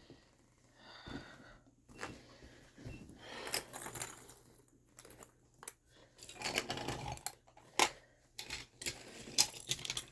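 Irregular clicks, rustling and clatter of small objects being handled and moved about, with a few sharper knocks in the second half.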